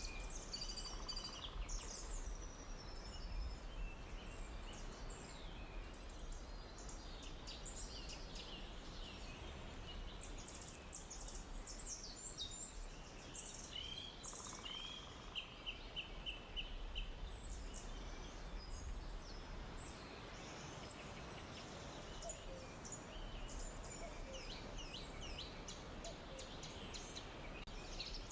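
Forest ambience: many birds chirping and singing, with a quick run of repeated notes near the middle, over a steady low rumble.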